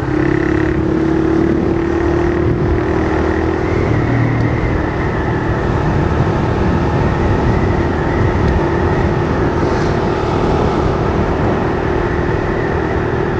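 Honda CG 160 Fan single-cylinder four-stroke engine running at a steady cruise through an aftermarket 'lata' can exhaust, with wind noise. The engine note dips slightly about four seconds in, then holds steady.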